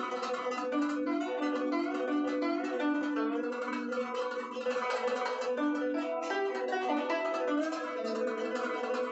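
Guzheng music: a continuous stream of quick plucked notes with ringing melody lines.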